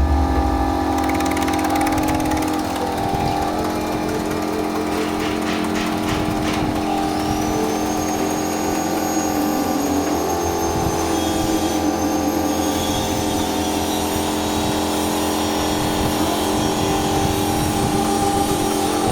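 Electric cassava chip slicing machine running: a steady motor hum, with a thin high whine joining about seven seconds in.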